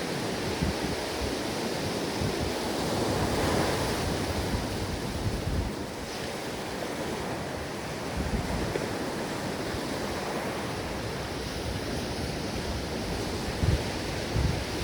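Ocean surf washing onto a shore, a continuous rush that swells about three to four seconds in, with low gusts of wind on the microphone, strongest near the end.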